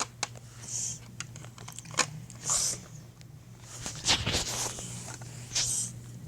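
Small plastic toy figures and props being handled and moved around: scattered clicks, knocks and rustles, with a few short hissing sounds.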